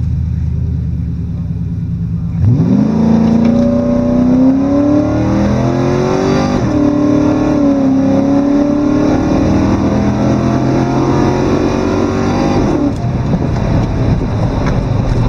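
2003 Ford Crown Victoria's 4.6-litre V8 at full throttle down the drag strip, heard from inside the cabin. The engine note sweeps steeply upward about two seconds in, climbs with a couple of short dips at gear changes, then drops away near the end as the throttle is lifted, settling to a low rumble.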